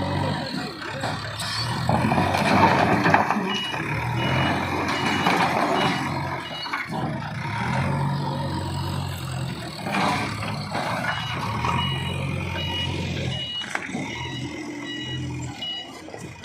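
Bulldozer's diesel engine running steadily while its reversing alarm beeps about one and a half times a second, with loud bursts of crashing and scraping from the demolition about two seconds in and again about ten seconds in.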